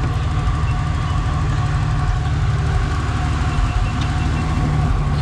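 Off-road 4WD truck's engine idling steadily, a low even running sound with no change in revs.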